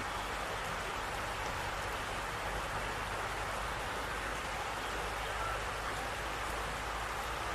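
Steady hiss of dripping and falling water after rain, with a low steady rumble underneath.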